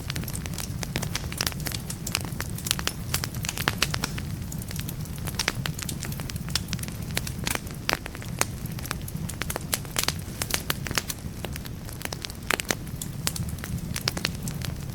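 Wood fire burning in a fireplace: logs crackling with frequent sharp pops, several a second, over a steady low rumble of the flames.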